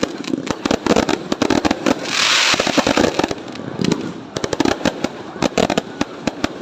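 Fireworks going off in quick, irregular succession: a dense run of sharp cracks and bangs, with a hissing burst about two seconds in.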